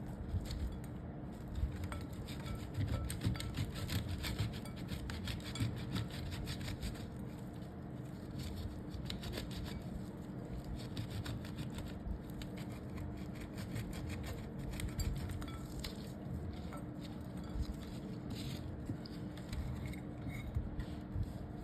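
A bar of soap being shredded: a dense run of fine, quick scrapes and crisp crunches, with a faint steady hum underneath.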